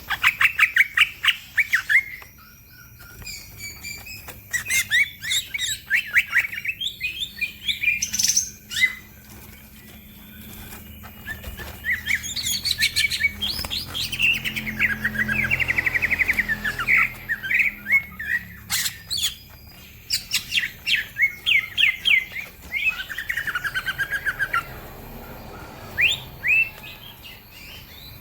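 Green leafbird (cucak ijo) singing in bursts of fast chirps and trills, with short pauses between phrases; other songbirds may be mixed in.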